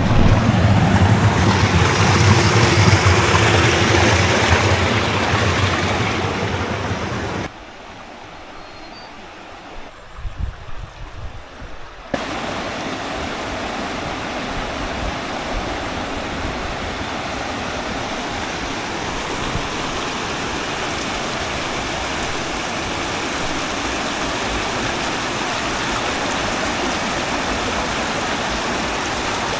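Rushing stream water, a steady even noise. It cuts off abruptly about seven seconds in, leaving a quieter stretch with a few knocks, then comes back steady about twelve seconds in.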